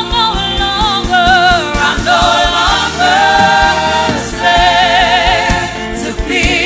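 Gospel worship music: a choir and lead voice singing long, wavering notes over a live band with a steady drum beat.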